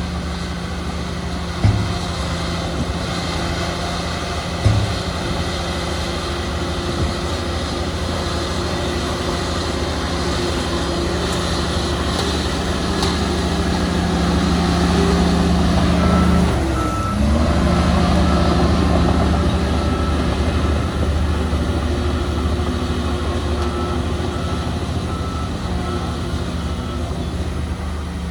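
Heavy diesel earthmoving machinery running steadily, with a reverse alarm beeping in two runs in the second half. The engine note dips briefly and picks back up about two-thirds through, and there are two sharp knocks near the start.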